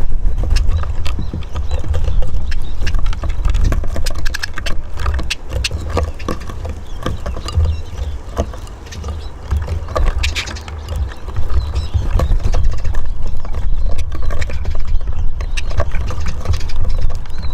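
Eurasian siskins hopping and pecking at seed on a balcony bird house: a busy run of sharp, irregular taps and clicks over a loud, fluctuating low rumble.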